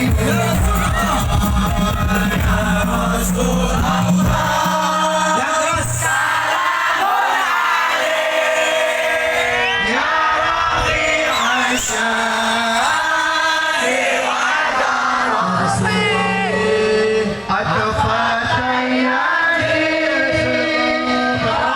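Live sholawat devotional music: voices singing a melody with the crowd joining in, over a low bass that drops out for stretches.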